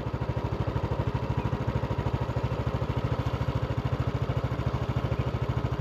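Motorbike engine running steadily at low revs, with an even putting pulse about a dozen times a second.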